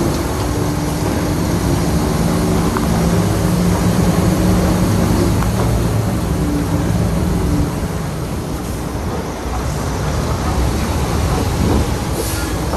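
Diesel engine of a Shantui bulldozer running hard and steady, its note easing for a moment about eight seconds in before picking up again.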